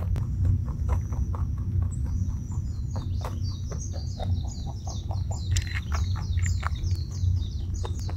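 Birds chirping, with a quick run of short, high, falling notes repeated several times a second from about three seconds in, over a steady low rumble.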